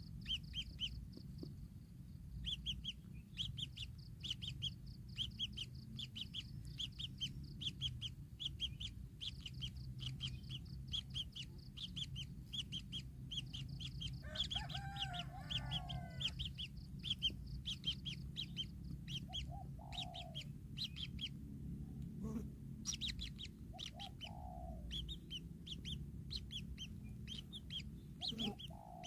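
Birds chirping: short high calls repeated several times a second, with a few lower, clucking calls about halfway through and again later. A steady low hum runs underneath.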